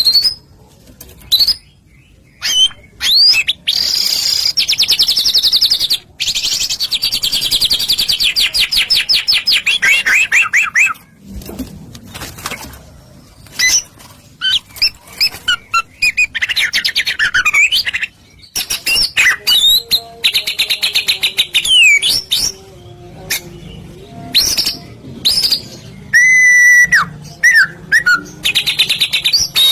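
White-rumped shama (murai batu) singing loudly in varied phrases: a long, rapid trill, then shorter whistled and sliding notes broken by brief pauses.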